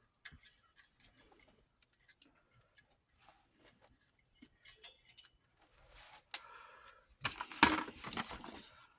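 Light clicks and rattles of small plastic and metal parts on an 8mm film viewer-editor as film is threaded through it by hand. Near the end comes a louder stretch of scraping and clattering.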